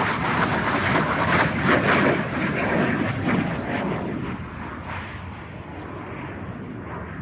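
Roar of airplanes flying past in an air show display, loudest for the first four seconds, then fading as they draw away.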